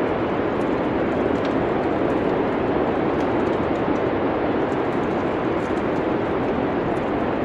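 Steady rushing wind noise of a winter storm ambience, with faint, scattered crackles from a fireplace.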